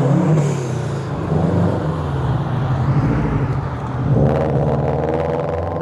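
Car engines running at low revs as cars pull away. About four seconds in, a second engine's note comes in and rises as it is revved.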